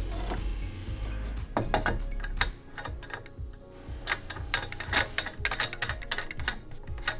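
Metal fittings of a jeweller's torch and oxygen tank setup clicking and clinking in a quick, irregular run as they are handled. A low steady hum stops about two and a half seconds in.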